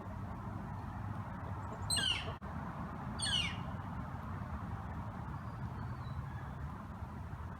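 A wild bird calling twice, a bit over a second apart, each call a quick series of falling notes, over steady background noise.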